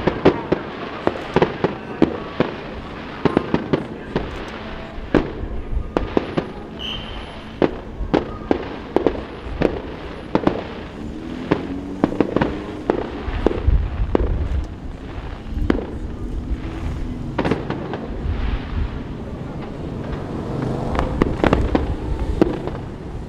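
Aerial fireworks bursting in rapid succession: dozens of sharp bangs, often several a second, each with a short echoing tail, over a low wind rumble on the microphone.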